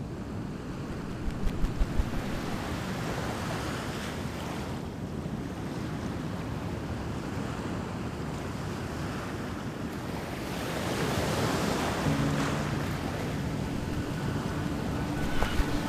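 Ocean surf washing onto a beach in slow swells, with wind; a low steady hum comes in near the end.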